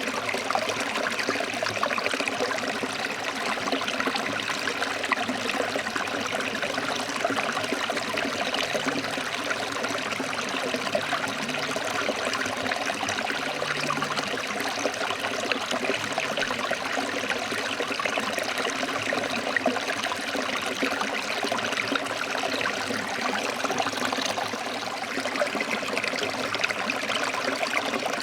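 Forest stream flowing and splashing over rocks, a steady rushing and trickling of water.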